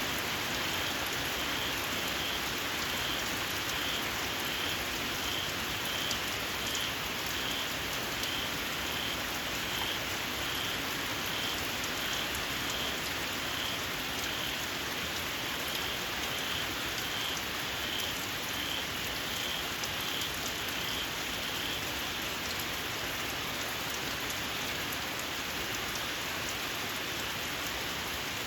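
Steady rain falling, with a small frog giving a shrill call in a regular series of short high notes, about two a second, that stops about three quarters of the way through.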